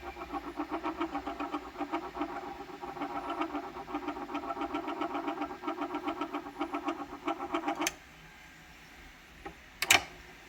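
Thorens TD 160 belt-drive turntable motor running with a rhythmic pulsing noise, about five or six pulses a second, that stops abruptly about eight seconds in. Near the end come a faint click, then a sharp, loud click.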